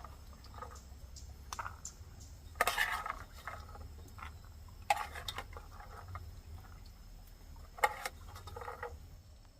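Bursts of clattering and knocking, as of things being handled and set down, over a faint low hum. The sharpest knocks come about five seconds and about eight seconds in.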